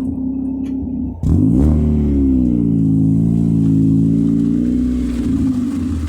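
Mazda Miata 1.6 four-cylinder engine through Raceland headers and an ISR exhaust, droning steadily, then suddenly much louder about a second in as the throttle opens. The pitch jumps up and then holds fairly level with a slight waver under acceleration.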